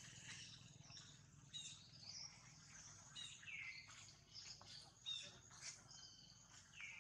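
Faint birdsong: scattered short high chirps from several birds, with a couple of calls that slide downward in pitch.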